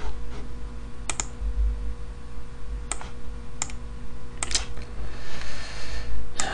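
Computer keyboard keys pressed a handful of times, single separate clicks a second or so apart, over a low steady hum, with a soft hiss swelling about five seconds in.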